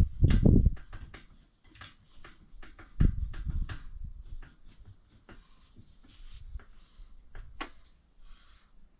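Handling sounds: a run of small clicks and knocks, with a loud low thump right at the start and another about three seconds in, then only scattered light ticks.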